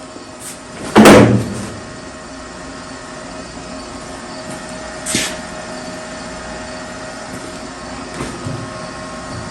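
Short tack welds from a welder stitch welding a car quarter panel. One loud burst comes about a second in, a shorter one about halfway through, and faint ones near the end, all over a steady hum. The welds are kept short so the sheet metal stays cool.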